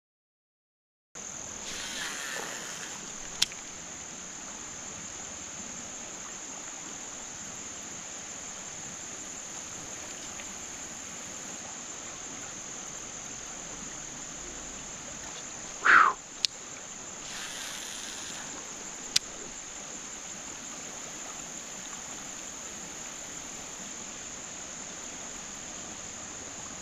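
Steady high-pitched insect chorus, like crickets, with a few sharp clicks and one short louder sound about 16 seconds in. The sound drops out for about a second at the very start.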